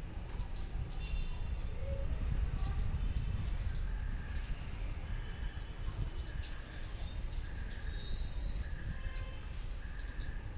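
Sparrows chirping: many short, high chirps overlapping. From about four seconds in, a shorter lower note repeats steadily under them, with a low rumble underneath.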